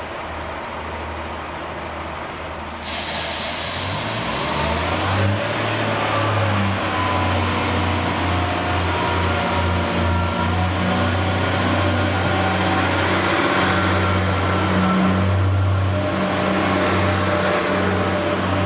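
Diesel train engine running loudly with a steady low note, pitch shifting as it works, with a sudden jump in loudness about three seconds in.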